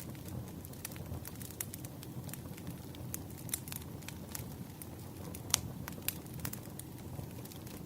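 Wood fire burning: a low steady rumble with frequent sharp crackles and pops, the loudest about five and a half seconds in.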